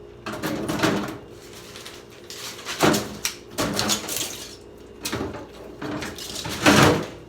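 Plastic water bottles being handled and put into a refrigerator drawer: a run of rustling, knocking bursts, the loudest near the end.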